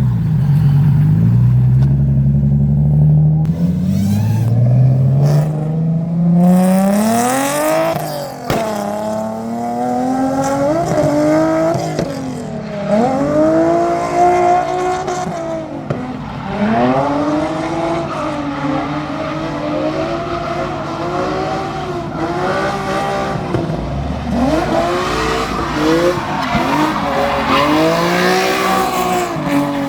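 Drift car engine revving hard. Its pitch climbs steadily over the first several seconds, then rises and falls over and over as the throttle is worked through slides, with tyres squealing.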